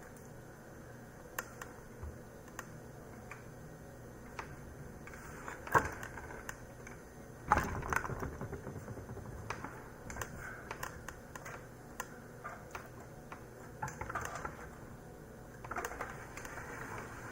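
Scattered clicks, taps and rustling of hands handling parts and cables inside a desktop computer, with two louder knocks about six and seven and a half seconds in.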